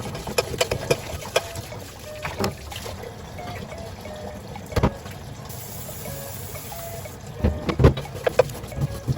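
Water running and splashing in a kitchen sink, with repeated knocks and clinks of hard parts being handled. The knocks are loudest and most frequent near the end.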